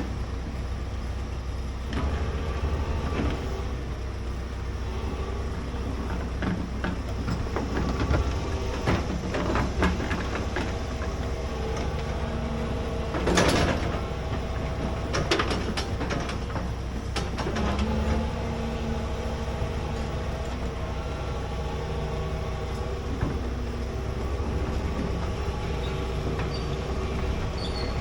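Large excavator's diesel engine running steadily under load while digging, with scattered metallic clanks and scrapes; the loudest clank comes about 13 seconds in.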